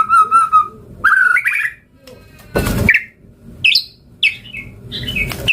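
White-rumped shama singing a varied song. A wavering whistled note and rising whistles come first, then a harsh rasping burst about halfway through, then a run of quick high chirps.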